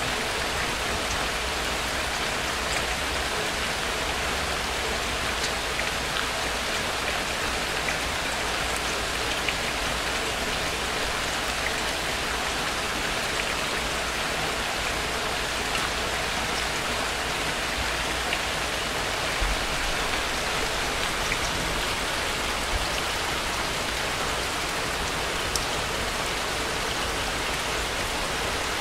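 Steady rain falling, an even hiss with occasional single drops heard distinctly.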